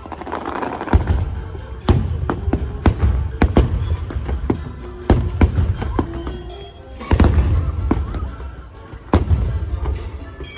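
Fireworks bursting: several deep booms with many sharp cracks between them, over the show's music soundtrack.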